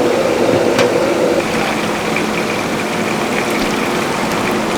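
Steady mechanical hum with a rushing noise, like a running motor or burner. A higher tone fades out about a second and a half in, and there is one light click.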